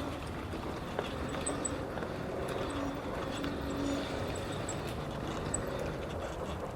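Bicycle riding over the road: steady tyre and road noise with light rattling and scattered clicks.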